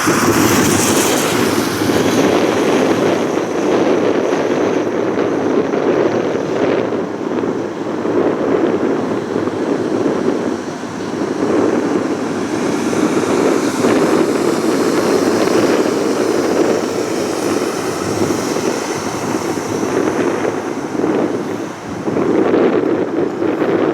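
Jet engine noise from a Boeing 787-9 airliner slowing and turning off the runway after landing: a steady, loud rumble that swells and eases slowly.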